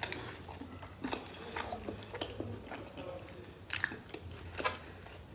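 A person chewing a mouthful of cheesy pizza: soft, irregular wet mouth clicks and smacks, with two sharper smacks in the second half.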